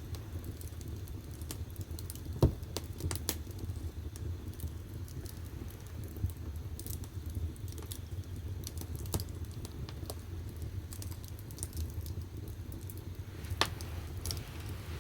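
Firewood burning in the firebox of a wood-fired bath, crackling with scattered sharp snaps over a steady low rumble of the fire, with one louder pop about two and a half seconds in.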